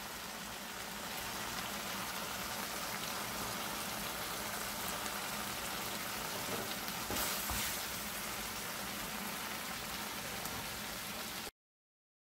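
Thick bilimbi achar sizzling steadily in mustard oil in a pan, its water cooked down so it fries in the separated oil. There is a brief knock about seven seconds in, and the sound cuts off suddenly near the end.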